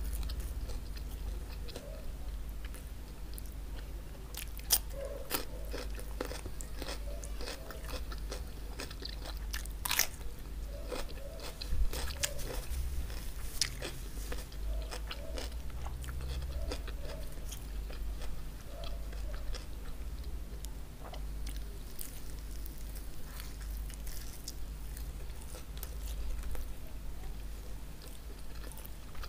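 Close-up chewing and crunching of crispy chicken hawawshi, the toasted stuffed flatbread crackling as it is bitten and chewed, with a few sharper crunches about five, ten and twelve seconds in. A steady low hum sits underneath.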